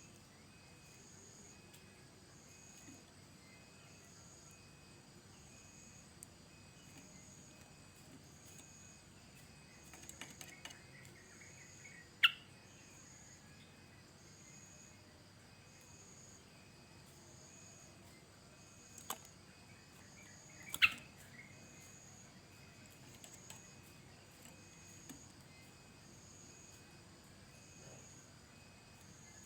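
Yellow-vented bulbul giving a few short, sharp calls: a quick cluster about ten seconds in, then single louder notes around twelve, nineteen and twenty-one seconds in. Under them runs a faint, steady pulsing insect trill, like a cricket.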